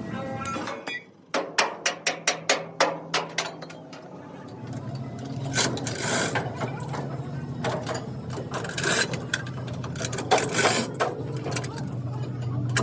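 A hammer striking metal in a rapid run of about ten blows, roughly five a second. It is followed by a steady low hum with intermittent scraping.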